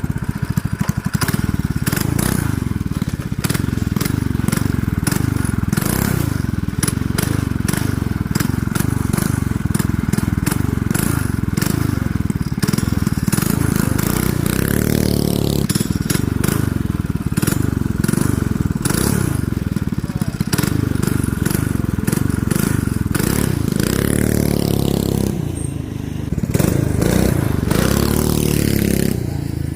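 Governor-deleted 212cc single-cylinder four-stroke minibike engine revving hard under riding, its pitch rising and falling several times as the throttle is worked, with frequent sharp clicks and knocks over it.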